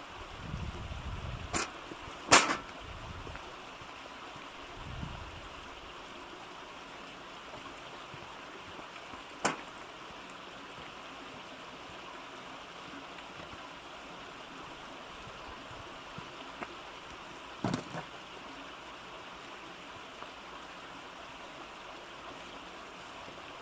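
Steady rushing of running water, broken by a few sharp knocks, the loudest about two seconds in.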